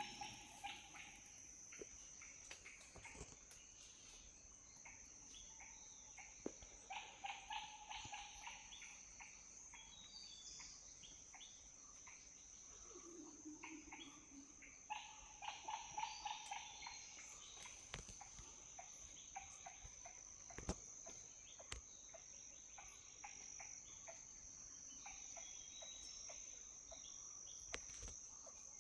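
Steady, high-pitched insect drone of crickets, with a few bursts of rapid, repeated animal calls about a quarter and half of the way through, and occasional sharp clicks.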